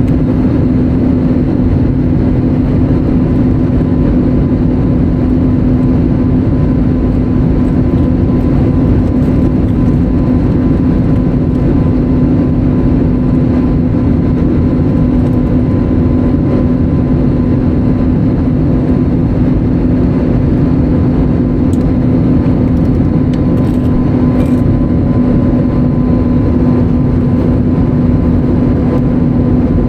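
Steady engine and airflow noise inside the cabin of an Airbus A320neo, a constant rushing roar with a steady low hum running through it.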